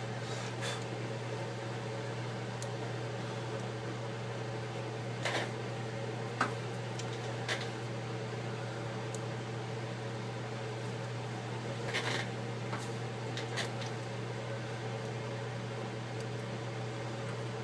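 A steady low hum from a running fan or appliance, with a few light clicks and taps scattered through it as small parts and tools are handled during a tablet screen repair.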